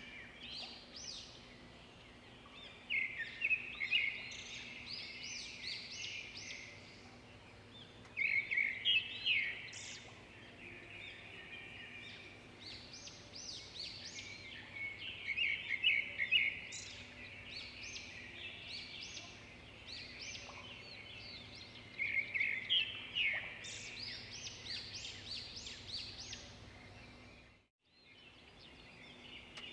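Swiftlets twittering: overlapping clusters of rapid, high, short chirps that swell and fade in waves every few seconds. The sound cuts out briefly near the end.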